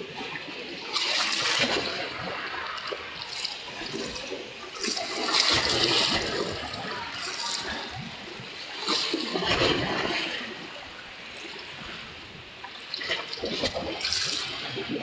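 Water splashing and gushing in repeated surges, about every four seconds.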